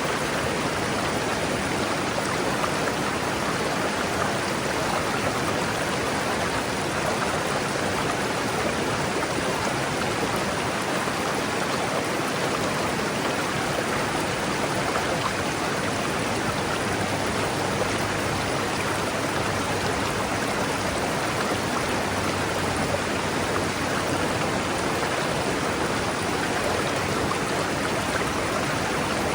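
River water rushing steadily over rocks: an even, unbroken rush of flowing water.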